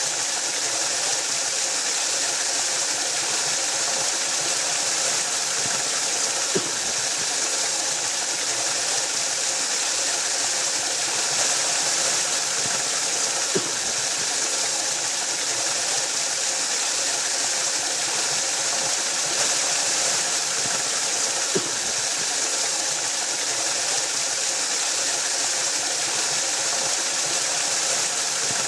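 Waterfall: a steady rush of falling water, even and unbroken. A short tick cuts through about every seven seconds.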